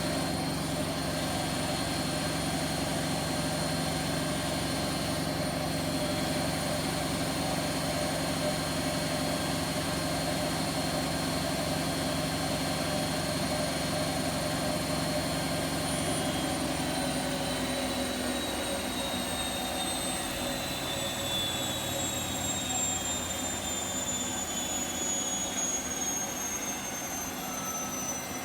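Bosch Vario Perfect washing machine on its high-speed spin: a steady motor whine over the drum's rumble, then about two-thirds of the way through the whine starts falling as the spin winds down. It was tested for worn drum bearings, but the owner does not find it loud and is not convinced the bearings are bad.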